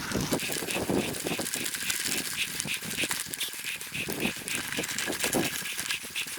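Mountain bike rolling over a rough dirt trail, rattling and knocking, with a high squeak repeating about three times a second from the first couple of seconds onward.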